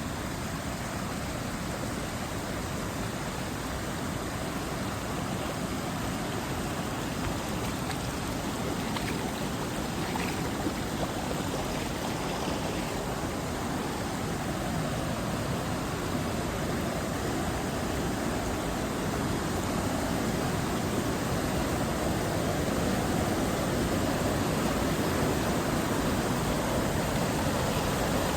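Steady rushing noise with no distinct events, growing slowly louder over the stretch.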